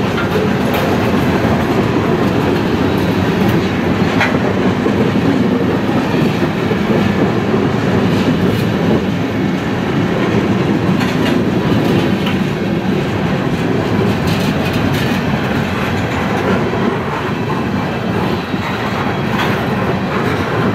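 Loaded tank cars of a heavy freight train rolling past on a grade, a steady rumble with scattered clicks and knocks from the wheels and running gear. The underpowered 9,200-ton train is losing speed on the hill on its way to a stall.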